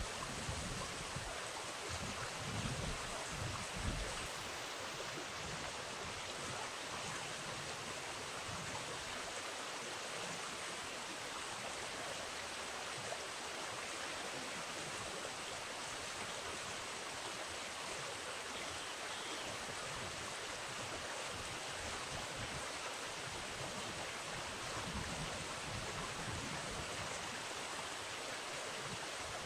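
Steady rush of flowing river water, with low rumbling gusts in the first few seconds and again in the latter part.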